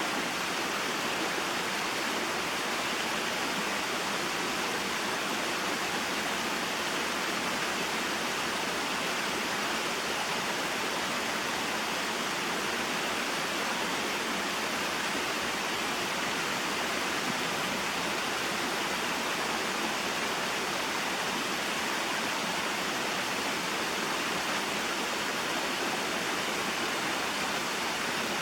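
Small mountain waterfall and stream: water splashing and rushing in a steady, unbroken hiss.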